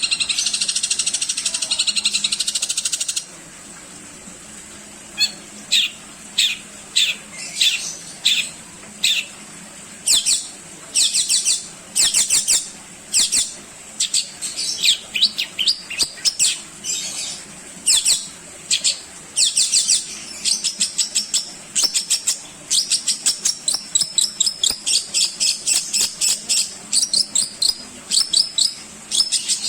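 Long-tailed shrike (cendet) singing a varied song full of mimicked notes. It opens with about three seconds of dense, rapid high chatter, then gives many short bursts of high notes with brief pauses between them.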